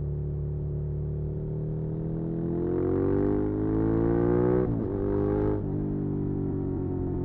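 Suzuki SV650's 90-degree V-twin engine accelerating with rising revs, then two quick upshifts about a second apart, after which it pulls steadily at lower revs.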